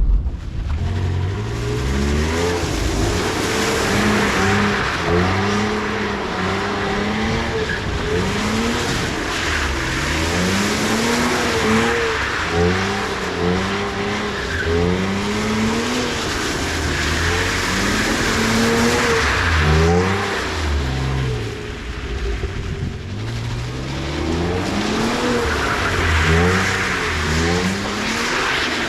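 BMW E46 320i's M54B22 straight-six engine revving up and falling back again and again as the car slides on a rain-soaked road, with a steady hiss of wet tyres skidding underneath. The engine dips briefly about three quarters of the way through, then climbs again.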